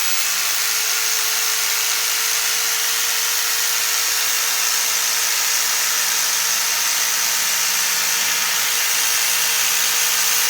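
Electric foam cutter running steadily while cutting through upholstery foam, a steady motor buzz with a faint whine.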